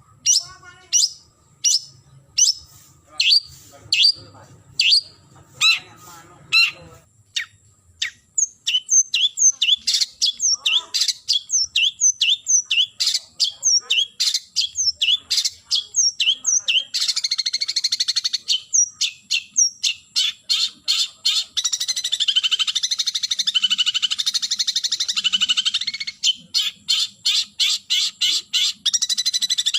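Long-tailed shrike calling: sharp, high calls about once a second, then quicker downward-slurred notes, breaking about halfway into a dense, harsh, rapid chatter.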